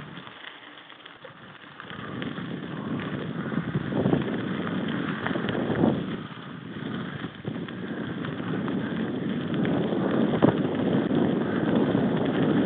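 Wind buffeting the microphone while riding a mountain bike over rough ground: a steady rush with scattered rattles and knocks. It is quiet at first and grows louder after about two seconds.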